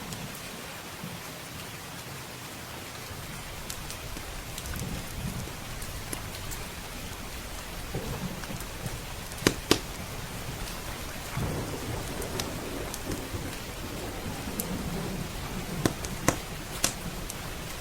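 Steady heavy rain with low thunder rolling in several times, and a few sharp pops from a crackling wood fire: the loudest come as a pair about halfway through and a cluster of three near the end.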